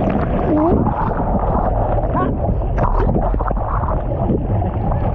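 Ocean surf churning and splashing over the microphone, a dense rumbling wash of water and wind noise. A short voice sound comes briefly near the start.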